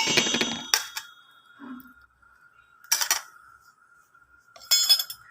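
Metal utensils clinking against kitchen vessels, most likely a spoon and bowls while salt is added to the flour. A ringing clatter comes at the start, then a single click, a short clatter about three seconds in, and another clink and scrape near the end.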